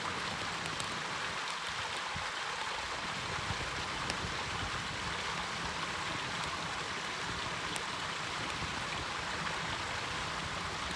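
Steady rushing of flowing water, like a mountain stream, with an even level throughout.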